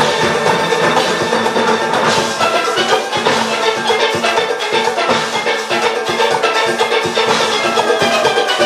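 Large steel orchestra playing: many steelpans sounding dense, fast runs of ringing notes over a driving percussion beat.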